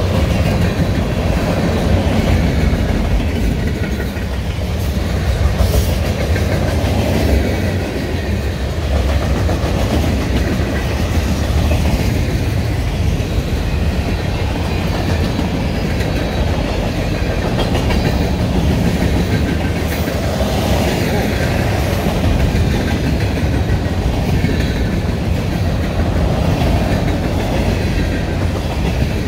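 Freight cars rolling past on steel rails: a steady, loud rumble of wheels on track, with a few sharp clicks as wheels cross rail joints.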